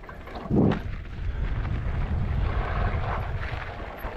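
Wind buffeting the microphone and a low rumble from a moving mountain e-bike on a dirt trail, with a loud thump about half a second in.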